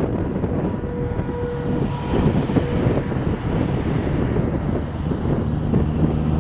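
Road and engine noise inside a moving chase vehicle: a steady rumble of tyres and motor with wind buffeting the car.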